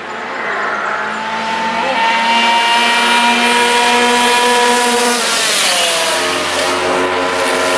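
Racing motorcycles at high revs passing by: a steady high engine note builds over the first couple of seconds, then falls in pitch after about five seconds as they go past, with another falling note near the end.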